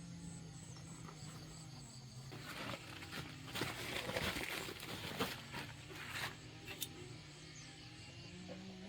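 Rustling and crackling with a few sharp clicks for about four seconds, starting about two seconds in, over a steady hum.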